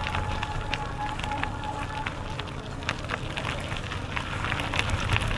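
Bicycle rolling along a rough trail: tyres crackling and crunching over the surface, with a low rumble underneath. A thin steady high tone sounds for about the first two seconds, then stops.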